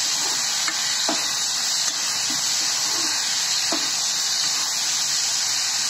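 Onion and green capsicum pieces sizzling steadily in hot oil in a non-stick kadai while a slotted spatula stirs them, with a few light knocks of the spatula on the pan.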